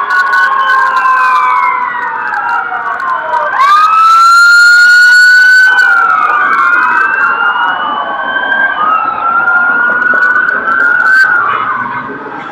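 Fire truck sirens wailing, several sweeps rising and falling over one another. About four seconds in, one siren climbs quickly and holds a loud steady tone for about two seconds before falling back. The sound fades near the end.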